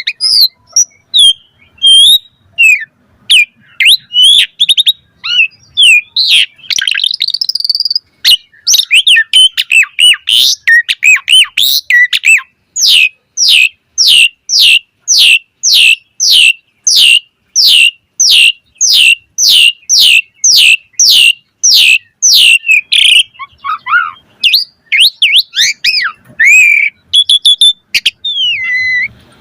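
Asian pied starling (jalak suren) singing loudly in a varied song of whistles and chirps, with a long run of quick, repeated falling whistles, about two a second, through the middle.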